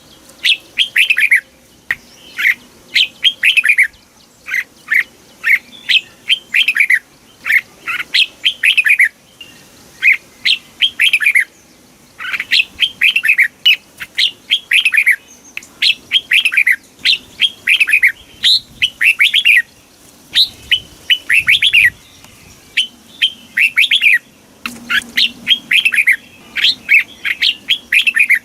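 Red-whiskered bulbul singing: quick phrases of clear whistled notes, many sliding downward in pitch, each phrase about a second long and repeated after short pauses.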